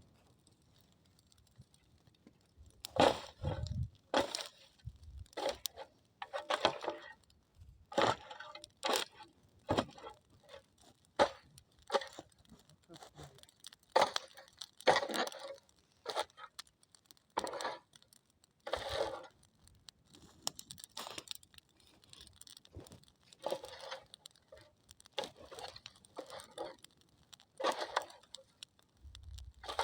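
Dry branches cracking and snapping in irregular, separate bursts, some sharp and loud, with short quiet gaps between.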